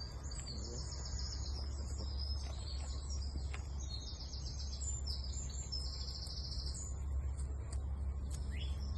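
Wild birds singing: a run of high chirps and fast trills from more than one bird, over a steady low rumble.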